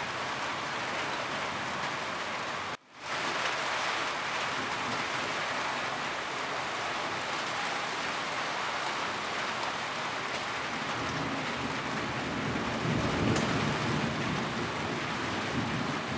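Steady rain on a roof, an even hiss of drops. The sound cuts out for an instant about three seconds in and fades back up. A low rumble swells for a few seconds in the second half.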